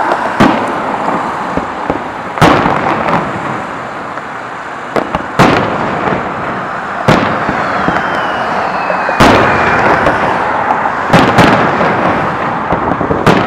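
Fireworks display: sharp bangs go off every one to two seconds, with a continuous noisy wash between them. A falling whistle runs for a little over a second around the middle.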